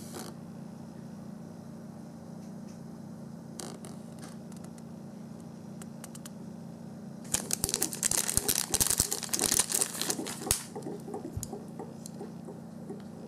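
Small hard plastic toy pieces being handled. There are a few faint clicks, then a burst of quick clattering clicks and rattles for about three seconds past the middle, over a steady low hum.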